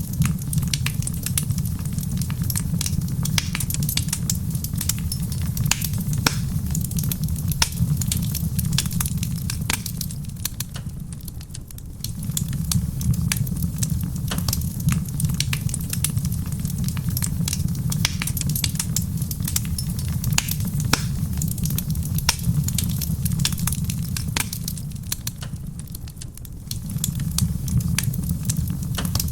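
Wood fire crackling in a stone fireplace: a dense run of sharp pops and snaps over a steady low rumble, which eases off briefly twice, about eleven seconds in and again near the end.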